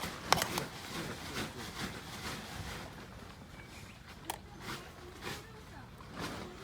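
Handling noises: a few sharp clicks and knocks amid irregular rustling, the sharpest at the very start and just after.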